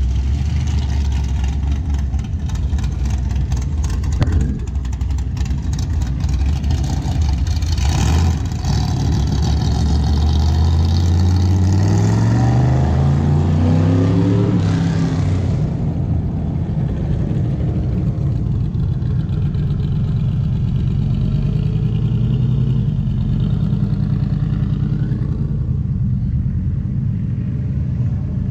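Car engines running as cars drive off, with a steady low rumble; about ten seconds in, one engine accelerates, its note rising for around five seconds before settling back into the rumble.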